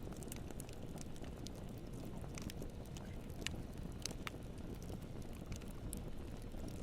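Campfire burning: a steady low rumble of flames with sharp crackles and pops at irregular intervals, a few louder pops near the middle.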